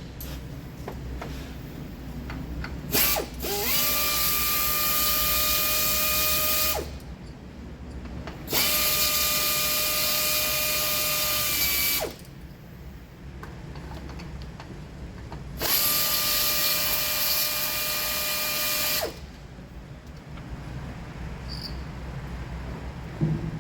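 Cordless power tool, a drill or electric ratchet, run three times for about three and a half seconds each. Its motor whine climbs quickly, holds a steady pitch, then stops sharply, as when spark plugs are spun out or in.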